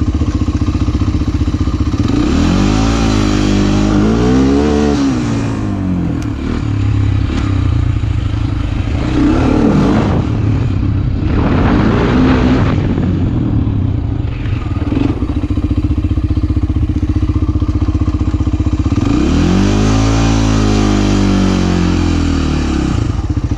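Motorcycle engine running under way. It revs up and back down a few seconds in and again near the end.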